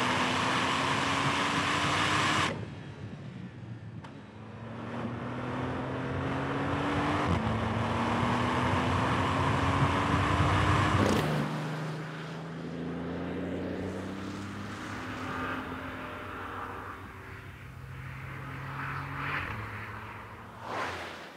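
2026 Porsche 911 Turbo S's twin-turbo hybrid flat-six accelerating on track, its note climbing steadily and then dropping back at each quick upshift of the PDK gearbox, several times over.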